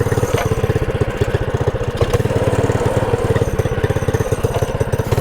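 Minibike's small gas engine running just after being started, with a fast, even firing pulse. It keeps bogging instead of revving cleanly.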